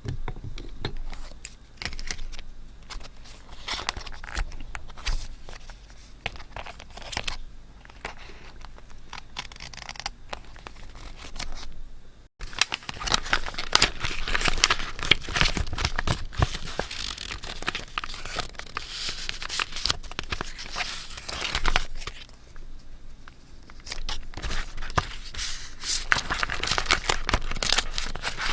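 Paper being torn and crinkled by hand, irregular rustling with small clicks and taps. It breaks off for an instant about twelve seconds in and then goes on louder and busier.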